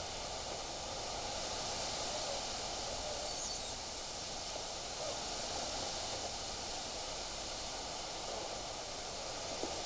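Steady wind blowing, an even rushing hiss, with a small tick near the end.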